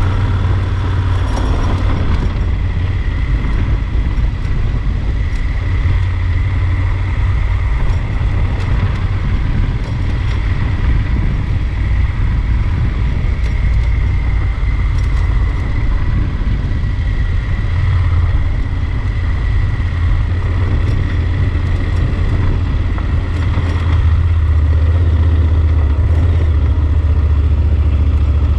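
Yamaha Super Ténéré XT1200 motorcycle under way, its parallel-twin engine running steadily beneath heavy low wind rumble on the camera microphone. It gets a little louder near the end.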